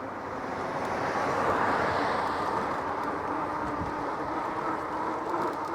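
A passing motor vehicle on the road, its tyre and engine noise swelling to a peak about two seconds in and then easing off, over steady street noise.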